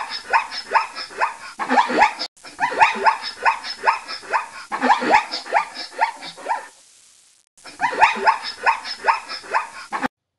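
Zebra calling: rapid runs of short, high, yelping barks, several a second, in bouts with brief pauses, the longest about seven seconds in.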